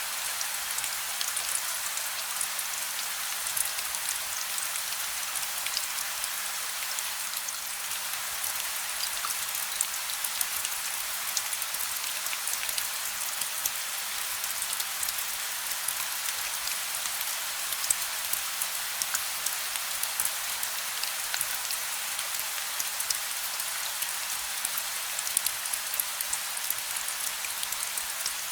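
Steady gentle rain: an even hiss of falling drops with scattered sharper drop ticks.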